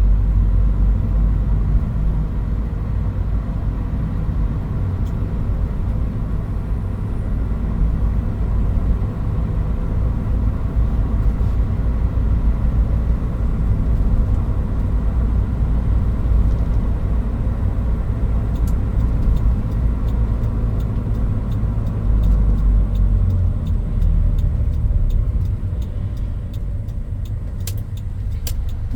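Toyota Hilux Mighty-X pickup on the move, heard from inside the cab: a steady low engine and road rumble. It eases slightly near the end, with a few faint ticks.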